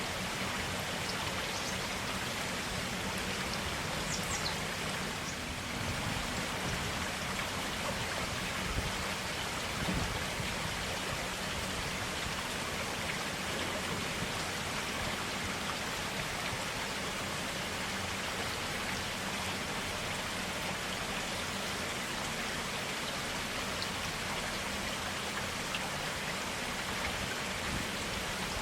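Forest stream running steadily over rocks, an even rush of clear flowing water with small splashes.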